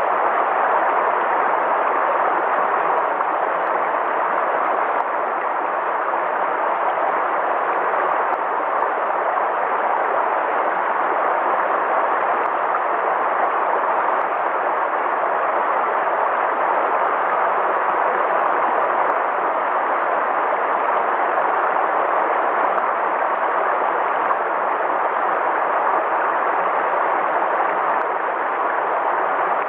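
River water flowing, a steady, unchanging rush of noise.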